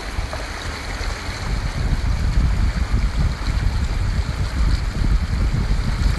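Rushing floodwater running down a wadi, a steady hiss of water with wind buffeting the microphone in a low, uneven rumble.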